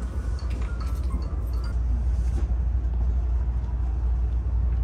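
Steady low rumble inside a Fuxing high-speed train's passenger car, with a few faint light clicks in the first two seconds.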